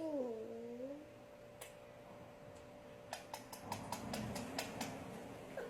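A pet parrot's drawn-out, wavering meow-like call, bending down and up in pitch, ending about a second in; then a quick run of about eight sharp clicks.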